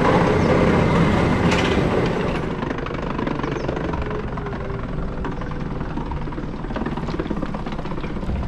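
Electric rack-railway train running, a steady rumble and rattle that is louder for the first couple of seconds and then eases off.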